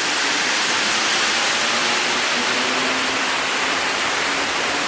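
Steady loud rushing noise with no clear beat or tone, with a faint voice in the background about two to four seconds in.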